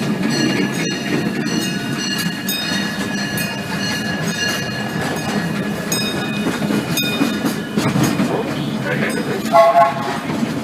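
Disneyland Railroad train, hauled by the E.P. Ripley steam locomotive, rolling along the track: a steady rumble with scattered clicks from the wheels.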